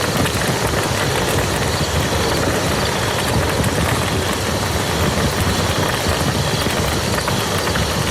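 Steady rain falling on a muddy field: a dense, even patter of drops that doesn't let up.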